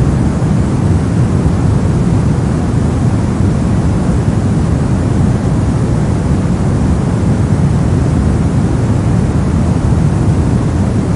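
Steady soft noise, a deep, even rush weighted toward the low end rather than a bright hiss, unchanging throughout.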